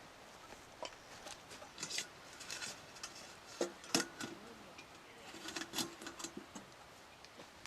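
Scattered light clicks, taps and short rustles from small objects being handled, the sharpest about four seconds in.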